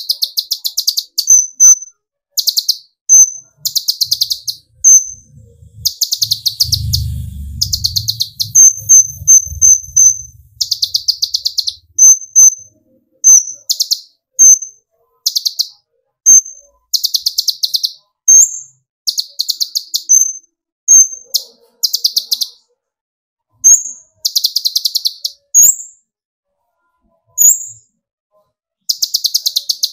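Kolibri ninja (konin) sunbird singing its 'tembakan' song: repeated short bursts of very fast, high rattling ticks, about one a second, with quick thin chirps between them. A faint low rumble runs under the song about seven seconds in.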